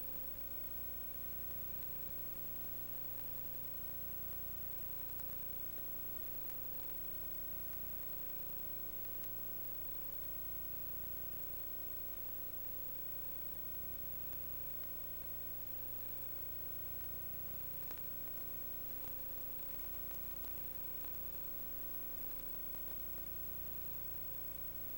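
Steady electrical hum and hiss with a few constant tones.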